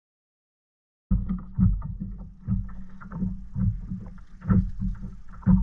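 After about a second of dead silence, wind buffets the camera microphone on a kayak in choppy water, a heavy low rumble broken by irregular thumps and knocks, about two a second, from water slapping and the boat being knocked about.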